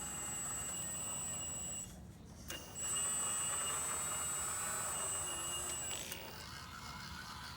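Hydraulic pump of a 1:14 scale RC CAT 330D excavator running with a steady high whine. It cuts out a little under two seconds in, starts again about a second later, and stops again around six seconds in, leaving a lower hum.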